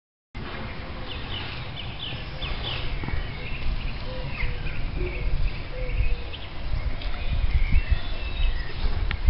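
Many short bird chirps over a low rumble that grows louder toward the end. The sound begins abruptly a moment in.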